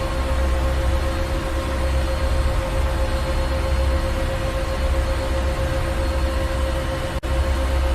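Ship engine room machinery running: a steady drone with a low rumble and a constant hum. A momentary gap in the sound comes near the end.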